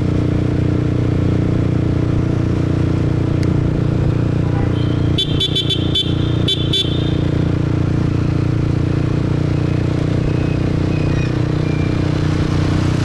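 Motorbike engine running steadily with road noise while riding in traffic; about five seconds in, a vehicle horn gives a quick burst of about seven short toots.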